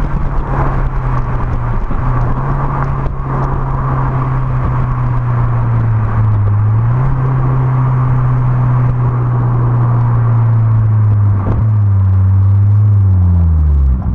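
Exhaust of a Peugeot 207 RC's 1.6 turbocharged four-cylinder engine running at a steady low note. The note steps up slightly about six seconds in, then falls away steeply near the end.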